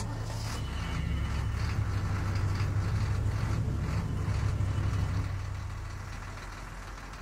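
A car engine running with a low hum, growing louder over the first few seconds and then fading away.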